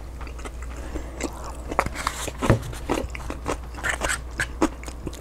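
Close-miked chewing of a mouthful that includes a green pepper: irregular wet, crunchy mouth clicks and smacks.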